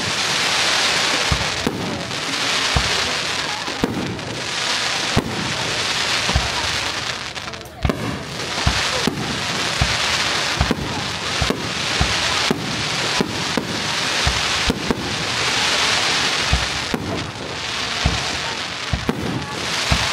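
Fireworks display: aerial shells bursting one after another with sharp bangs about once a second, over swelling waves of hiss from the burning stars.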